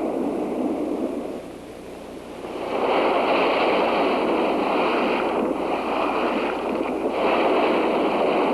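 Cartoon sound effect of a huge atomic explosion rising from the water: a rushing noise that swells sharply about two and a half seconds in and stays loud and steady.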